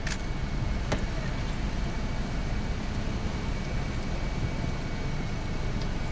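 Steady low rumble of a car's interior with the engine running, with two sharp clicks in the first second.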